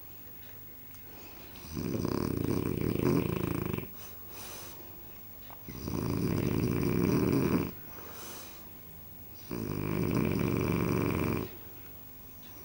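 Dog snoring in its sleep: three long snores about four seconds apart, each lasting about two seconds, with short softer breaths between them.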